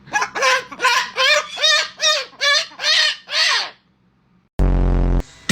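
Parrot giving a rapid series of about ten short, harsh calls that rise and fall in pitch, then a short loud low buzz near the end.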